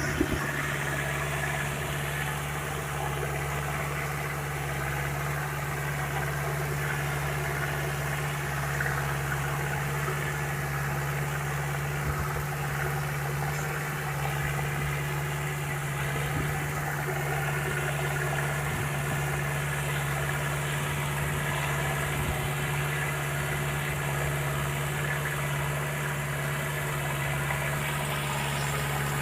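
Deutz-Fahr tractor's diesel engine idling steadily at a constant speed.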